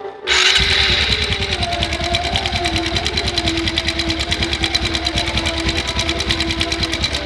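Honda Supra X 125's single-cylinder four-stroke engine starting up less than a second in and idling with a fast, even, rough clatter, which the mechanic takes for the sign of a slack, worn cam chain.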